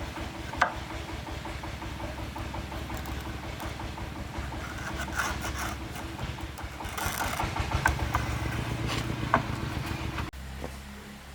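An engine running steadily, with a few sharp knocks along the way; about ten seconds in it suddenly drops to a quieter, lower note.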